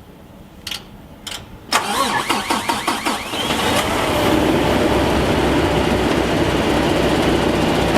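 Kenworth T880 truck engine starting: two clicks, then the starter cranks in rapid pulses for about a second and a half until the engine catches and settles into a steady idle.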